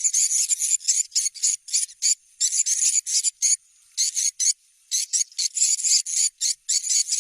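Swiftlet lure sound for checking a building site: recorded swiftlet calls, rapid rasping chirps in quick bursts with a pause of about a second near the middle.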